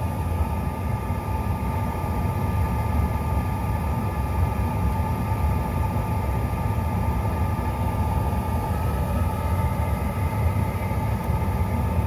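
Steady low rumble with a steady high whine inside the cabin of a CRJ900 regional jet, its rear-mounted jet engines running.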